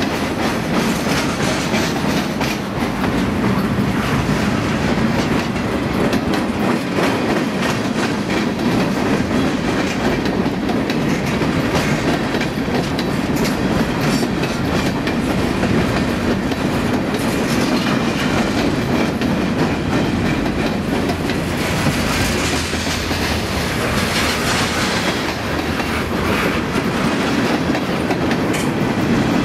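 Freight cars of a passing freight train rolling by at close range: a steady rumble of steel wheels on rail with repeated clickety-clack as the wheels cross the rail joints.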